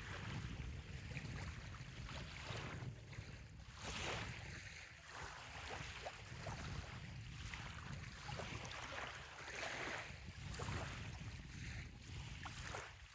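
Small waves lapping and washing on a sandy bay shore, surging every few seconds, over a steady low rumble of wind on the microphone.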